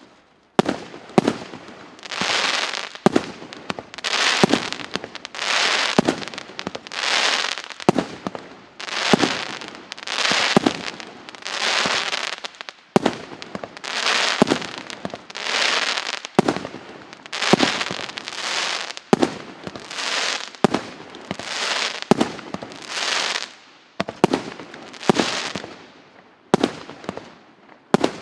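A 2-inch, 51-shot firework cake firing shot after shot, about one every one and a half seconds. Each shot is a sharp launch pop followed by a burst lasting about a second.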